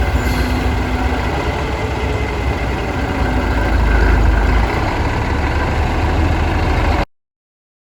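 Diesel engine of a 1988 Western Star semi tractor idling steadily, cutting off abruptly near the end.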